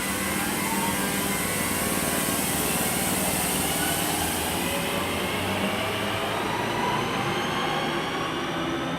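Class 323 electric multiple unit pulling away from the station, its traction motors giving several whining tones that climb slowly in pitch as it picks up speed over a steady rumble.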